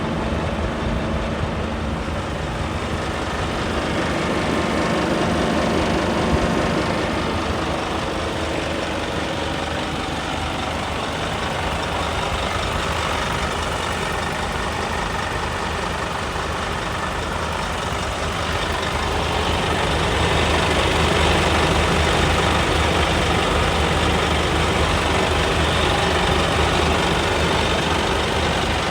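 Scania P280 truck's five-cylinder diesel engine running steadily, getting louder about two-thirds of the way through.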